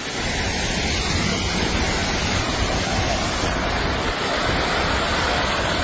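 A landslide's steady, intense rushing noise, like a raging river.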